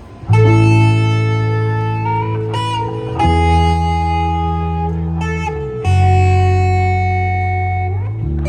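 Rock band starting a song with electric guitar to the fore: three loud held chords, about three seconds apart, each left to ring out, with quicker playing beginning near the end.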